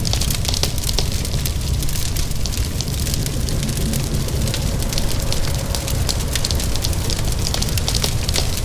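Wood fire crackling with frequent small pops and snaps over a low rumble, with a steady hiss of rain.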